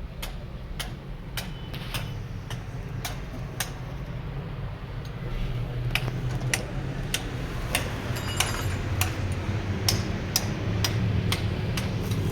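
Truck's indicator flasher ticking steadily, about twice a second, over the low running of the truck's engine, which grows louder about five seconds in.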